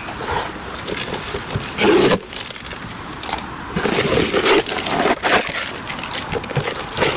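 Wood campfire crackling and popping irregularly, with a louder rushing burst about two seconds in and denser crackling from about four seconds on.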